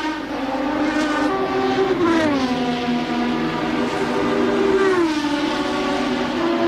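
A 1988 Formula One car's engine running hard. Its pitch glides down about two seconds in and again about five seconds in.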